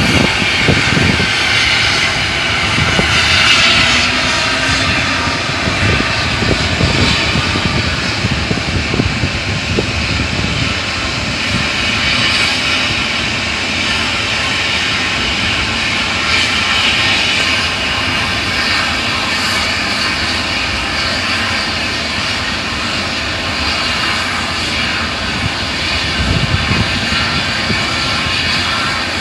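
Heavy engine running with a loud, steady drone and a noisy hiss over a low rumble.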